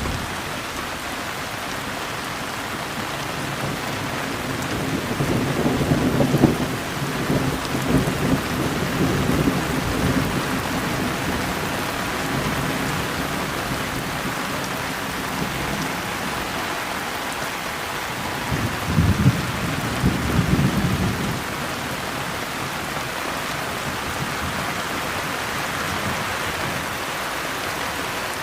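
Steady heavy rain with thunder rumbling low, a long roll a few seconds in and a shorter one about two-thirds of the way through.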